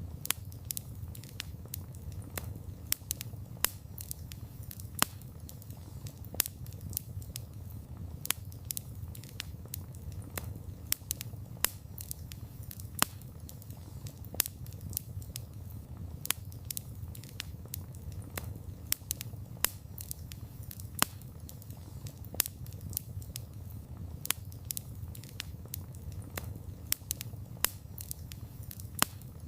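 Wood campfire crackling: irregular sharp snaps and pops, several a second, over a steady low rumble of the burning fire.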